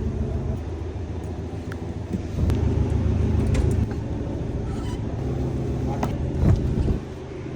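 A car engine running at idle with a steady low hum, louder for about a second and a half starting just over two seconds in. A few light clicks and taps sound over it.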